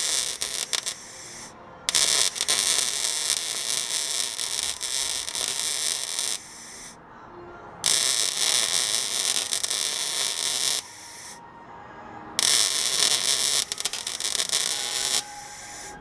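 Welding on the truck's body-mount metal: four runs of crackling hiss, each a few seconds long, broken by short pauses as the weld is stopped and restarted.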